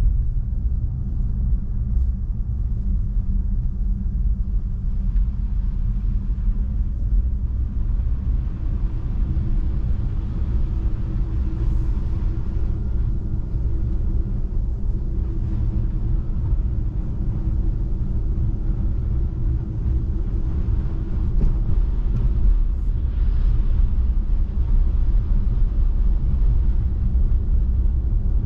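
Steady low rumble of tyre and road noise from an electric Tesla Model 3 driving on a snow-covered road, growing a little louder about three-quarters of the way in.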